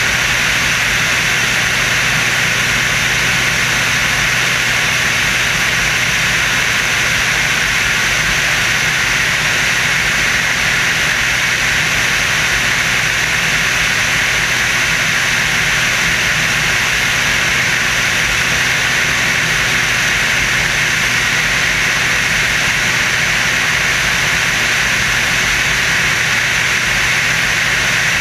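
Steady aircraft engine and wind noise aboard the Screamin' Sasquatch, a Waco biplane fitted with a radial engine and added jet engines. It is an even rushing hiss with a low steady hum, unchanging throughout.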